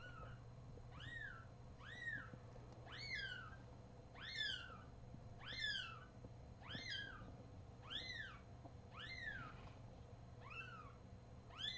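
Newborn kitten mewing over and over, about one high, thin cry a second, each rising then falling in pitch.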